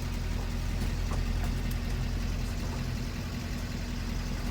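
Bus engine running steadily at low revs while the bus creeps forward, a constant low hum.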